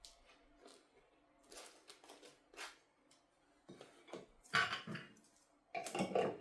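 Soft household handling noises: a string of brief rustles and light knocks, the loudest a little past halfway and again near the end.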